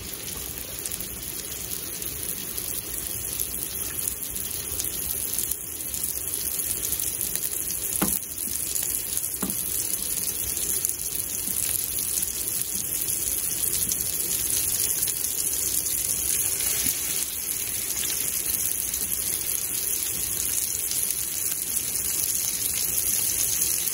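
Breaded cube steak frying in hot bacon grease in a cast-iron skillet: a steady sizzle, with two faint clicks about eight and nine and a half seconds in.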